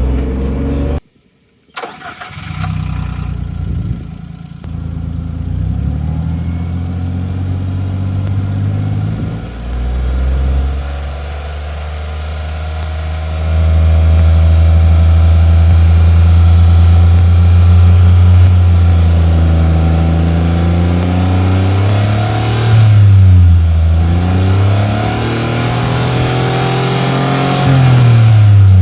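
Suzuki Every kei van's 660 cc three-cylinder engine running at idle through its exhaust muffler. It steps up louder about halfway through, then the engine is revved briefly a couple of times near the end.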